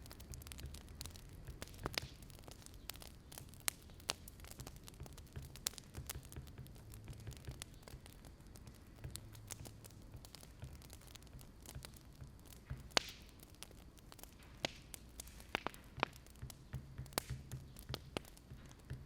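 Wood fire crackling: faint, irregular small pops and snaps over a low steady hum.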